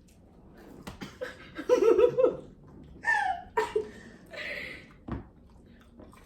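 Young women laughing in a few short bursts, with a breathy laugh near the middle.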